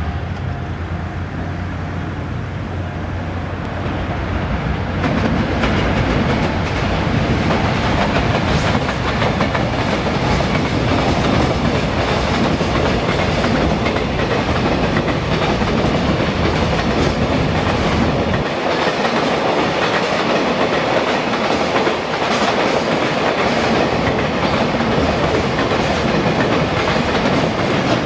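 Container freight train hauled by an electric locomotive passing close by, its wagons' wheels rolling over the rails with a steady clatter. The noise builds over the first few seconds as the locomotive approaches, and the deepest part of the rumble drops away about two-thirds of the way through while the wagons keep rolling past.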